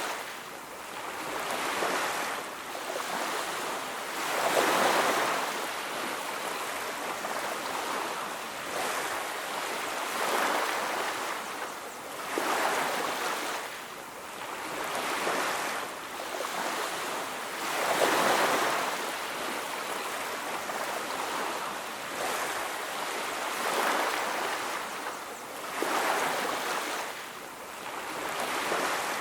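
Sea surf on a beach: waves break and wash in every few seconds, each swell rising and falling away over a steady hiss.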